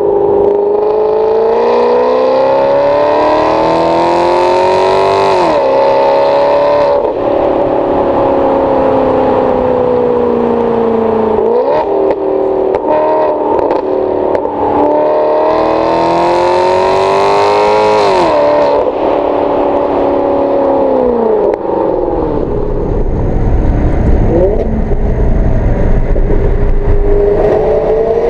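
2008 Maserati Quattroporte V8 through a Kreissieg F1 valved exhaust, accelerating with the revs climbing, upshifting twice with a sharp drop in pitch, and easing off between the pulls. For several seconds before the end it runs low with a deep rumble underneath, then the revs begin to rise again.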